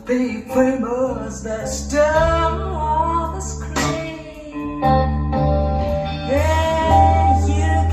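A song played back through Totem Model 1 loudspeakers: a singer's voice with vibrato over guitar and sustained deep bass notes.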